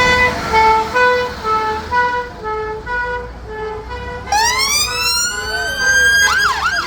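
Emergency vehicle siren sounding a two-tone hi-lo pattern, then switching about four seconds in to a rising wail, and near the end to a fast yelp.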